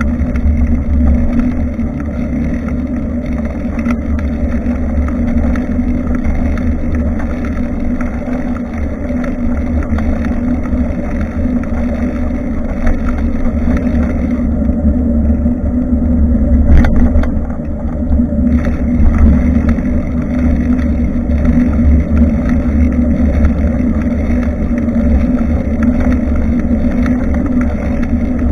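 Steady low rumble of wind and road noise picked up by a bicycle-mounted action camera while riding, with one sharp knock about seventeen seconds in.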